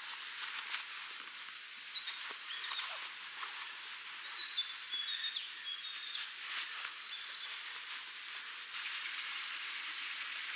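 Quiet forest ambience: a steady background hiss with a small bird calling in short, high chirps for several seconds, and scattered light clicks.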